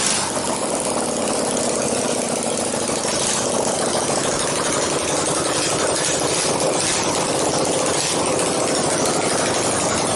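Dnepr MT-10-36 air-cooled flat-twin motorcycle engine running at a steady idle.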